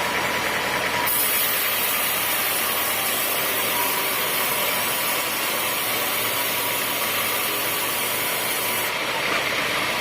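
Sawmill saw machinery running steadily. A loud high hiss starts about a second in and stops shortly before the end.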